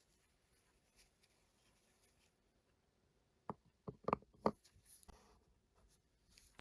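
A few light, sharp clicks and taps of small plastic toy pieces being handled, bunched together a little past the middle, over faint room tone.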